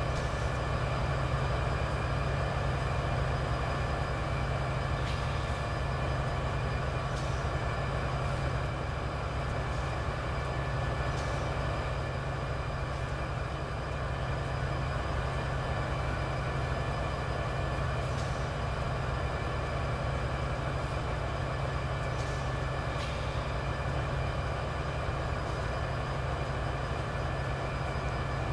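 Train running steadily, with a few short clicks every few seconds.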